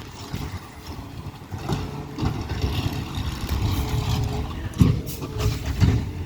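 Peterbilt 520 McNeilus ZR garbage truck's engine running with a low rumble, a thin steady whine setting in about halfway through. Two sharp knocks come about five and six seconds in.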